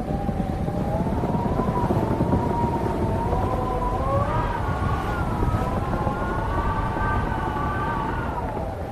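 Wind howling in wavering, moaning tones that rise in pitch about four seconds in and sink again near the end, over a steady low rush of wind noise.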